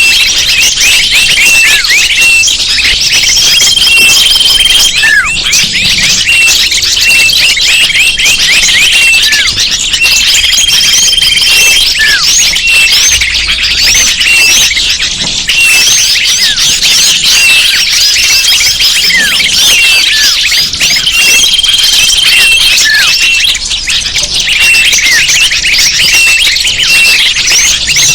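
Bird-lure recording: many small birds chirping and twittering together in a dense, continuous chorus, with short falling notes and a brief held whistle recurring every few seconds. It is played to draw wild birds in.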